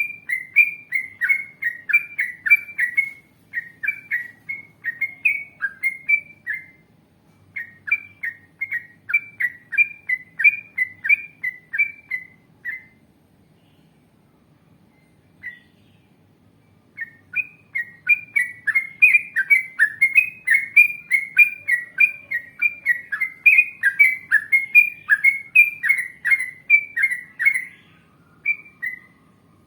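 Yellow-vented bulbul singing: long rapid runs of quick, loud, bubbling notes, about four a second. The song breaks off for a few seconds near the middle, with one lone note, then starts again.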